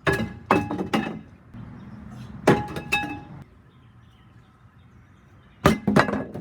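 Sharp knocks in three quick clusters of about three strikes each, with a faint ringing: one cluster at the start, one about two and a half seconds in, and one near the end.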